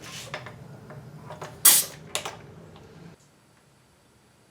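Small clicks from an air line being fitted to an automotive smoke machine, with a short sharp burst of compressed-air hiss about two seconds in and a smaller one just after, over a low steady hum that cuts off abruptly about three seconds in.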